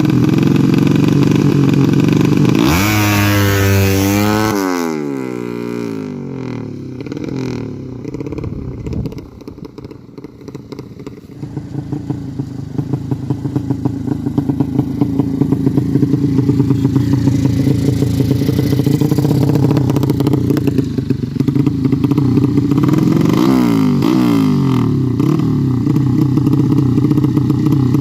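Yamaha Jupiter-based 200cc drag-bike engine running on a freshly fitted PWK Sudco 33 carburettor while it is being tuned. It revs sharply once about three seconds in and falls back, then the idle sags low and quiet for several seconds. It picks up to a steady pulsing idle, with another short blip of the throttle near the end.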